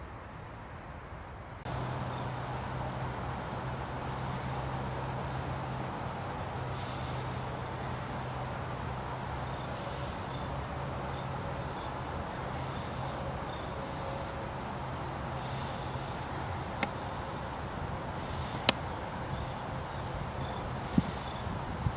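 A small bird chirping: one short, high note repeated evenly about every two-thirds of a second, over a steady low hum. One sharp click stands out near the end.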